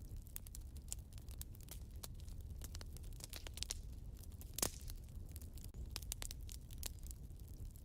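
Wood fire burning in a fireplace: irregular crackles and snaps over a low rumble, with one louder pop a little past halfway.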